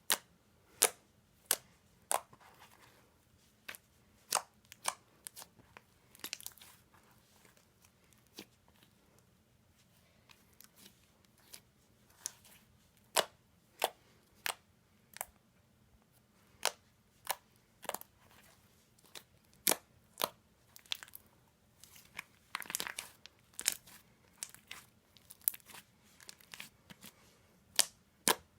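Green sand slime being squished and poked by hand: sharp crunchy pops and clicks, irregular, about one every second or so, with short crackling stretches twice.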